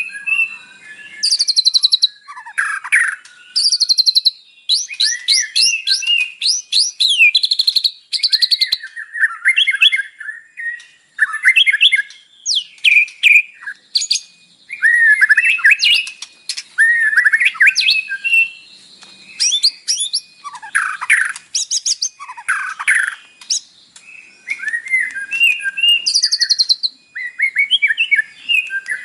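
White-rumped shama singing a long, varied song rich in learned phrases: loud whistles, sweeping notes and fast trills in short bursts, with brief pauses between phrases.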